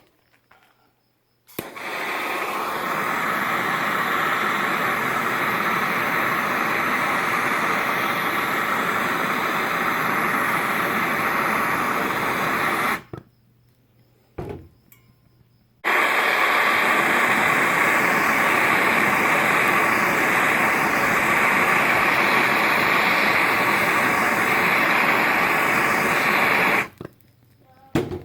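MAP gas torch burning with a steady hiss in two runs of about eleven seconds each, each starting and cutting off sharply, with a brief pause and a single short knock between them.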